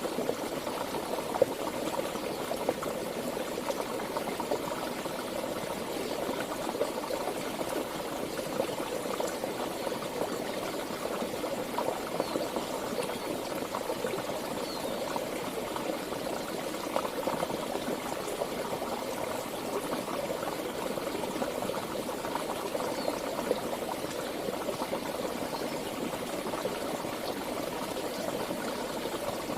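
Stream water flowing and bubbling steadily, an even rushing with no breaks.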